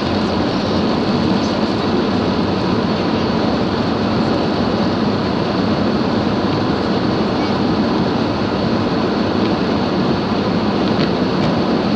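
Steady noise of a car driving through heavy rain on a waterlogged road: tyres hissing through water and rain beating on the car.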